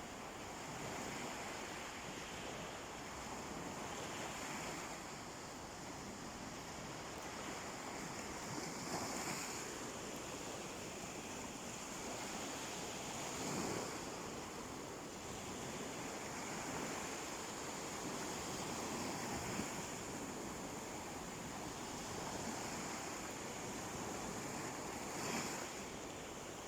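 Sea waves washing onto a beach: a steady surf hiss that swells and eases every few seconds, with a few brief louder surges.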